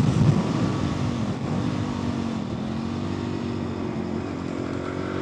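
Motorcycle engine through its stock exhaust, off the throttle after a pull, running at a quieter, steady low note with a brief dip midway. Right at the end the throttle opens and the engine note jumps back up loudly.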